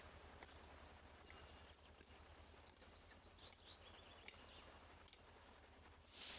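Near silence: faint outdoor ambience with a few small clicks and a short burst of hiss near the end.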